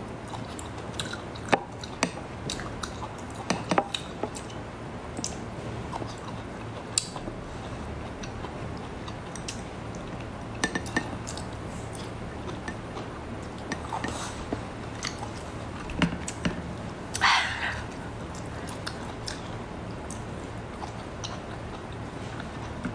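Close-up chewing and mouth sounds of a person eating slices of arctic surf clam, with scattered small clicks and clinks from fingers, plate and a glass dipping bowl. One louder mouth sound stands out about three-quarters of the way through, over a steady low hum.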